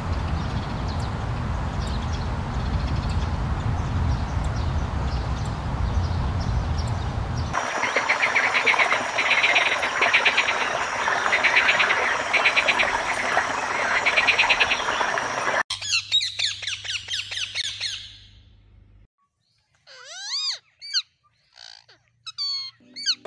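A low outdoor rumble with faint ticks. About 7.6 s in it gives way to a frog calling in repeated rapid pulsed trains over a thin steady high tone. About 16 s in that is followed by a caged parakeet's chirps and whistles rising and falling in pitch, in short bursts with pauses.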